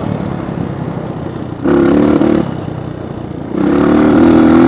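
Dirt bike engine running while riding, with the throttle opened briefly about one and a half seconds in, eased off, then opened again and held near the end.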